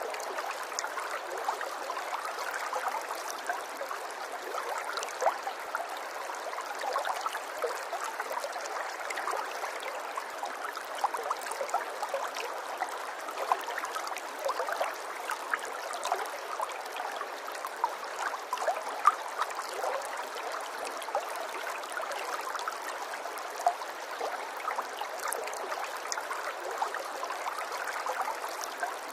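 Running water trickling and gurgling steadily, dense with small splashes, with a few louder splashes here and there.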